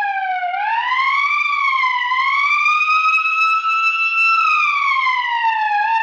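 A single long, wailing, pitched sound effect. It slides up in a few waves to its highest point about four seconds in, then sinks slowly, like a siren.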